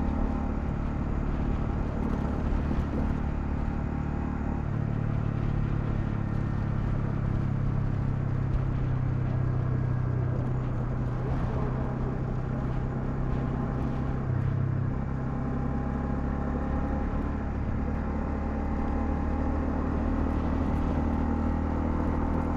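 Honda CL250's single-cylinder engine running under way, its note shifting about five seconds in and again around fifteen seconds.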